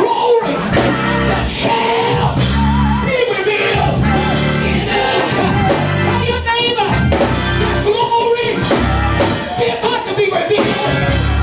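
Loud gospel praise-break music: a church band with heavy bass notes and steady drum hits, and voices singing over it.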